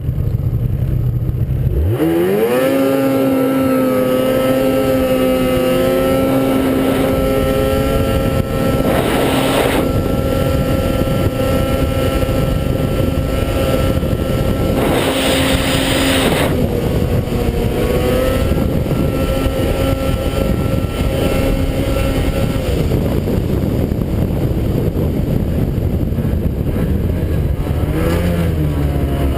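600cc two-stroke Ski-Doo snowmobile engine revving up sharply about two seconds in, then held at a steady high pitch at wide-open throttle. There are two bursts of rushing noise partway through. The engine eases off around three quarters of the way in, and the revs rise and fall near the end.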